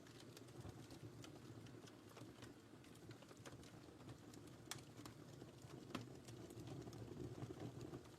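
Wood fire crackling in a fireplace: a quiet, steady low rush of burning with frequent small crackles and two sharper pops, about five and six seconds in.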